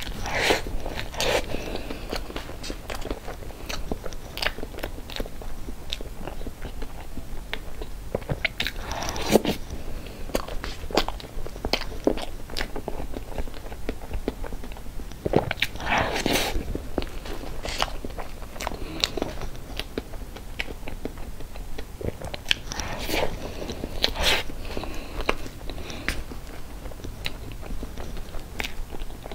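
Chewing and wet mouth sounds of a person eating spoonfuls of whipped-cream cake, with louder smacking bites in bunches every seven seconds or so.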